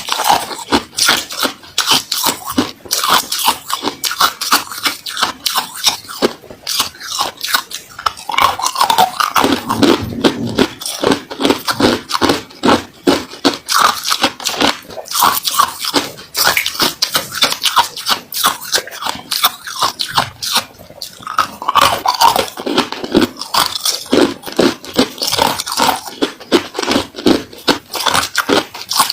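Ice being bitten and chewed close to the microphone: a fast, unbroken run of sharp crunches, several a second.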